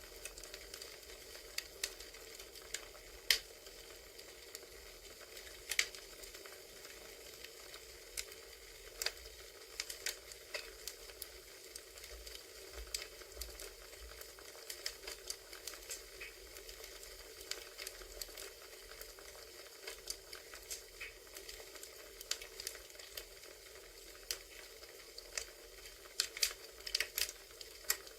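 Crackling wood fire ambience: irregular sharp pops and snaps over a steady soft hiss.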